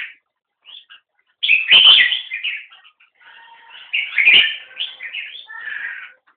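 Caged songbirds calling back and forth in quick chirping phrases, loudest in two bursts about two and four seconds in. Each burst carries a short dull thump.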